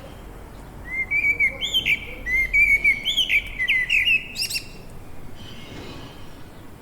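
A songbird singing a quick run of sweeping chirps for about four seconds, starting about a second in, over a steady faint hiss.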